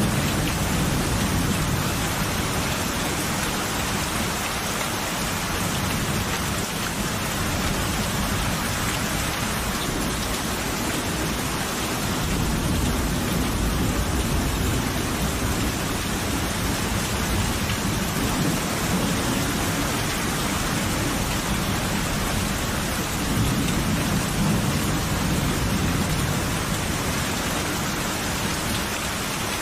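Steady heavy rain with rolling thunder: low rumbles swell near the start, again in the middle and again a few seconds before the end.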